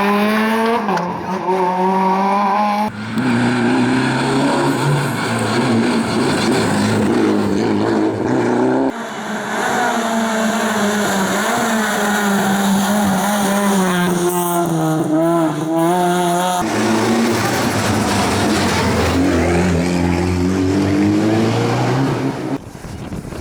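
Historic rally cars' engines revving hard at full throttle, the pitch climbing through the gears and dropping at each change, in several clips cut one after another.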